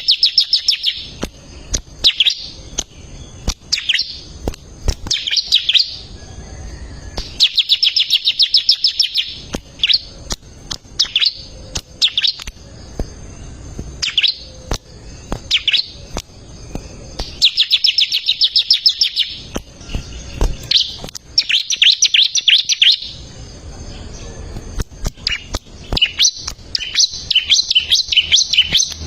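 Bar-winged prinia (ciblek) singing in full voice: rapid trilled phrases of high, sharp notes, each a second or two long, repeated again and again with single sharp chips between them.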